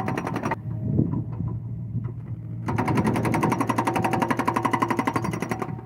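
Excavator running with a steady hum. About halfway through, a fast, even rattle of mechanical clicks starts and runs for about three seconds before stopping; a short burst of the same rattle comes right at the start.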